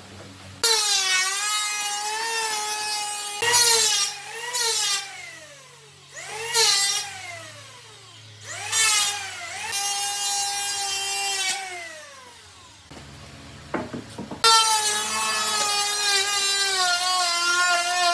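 Handheld electric power tool motor switched on and off several times: a high whine that comes up to speed, runs for a few seconds and then falls in pitch as it spins down, with three longer runs and a few short blips between them.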